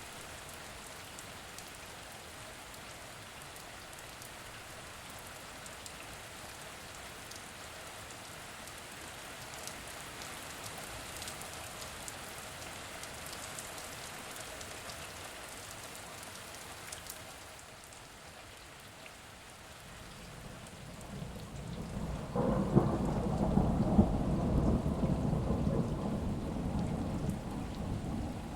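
Steady rain falling, with a long roll of thunder that builds from about two-thirds of the way in, crackles at its loudest and fades off near the end.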